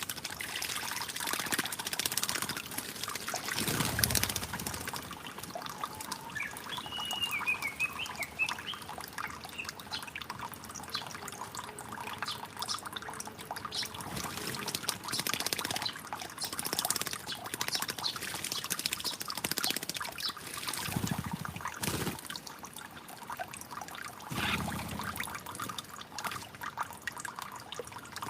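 Water trickling and splashing steadily, with a short warbling bird call about seven seconds in and a few brief low rumbles.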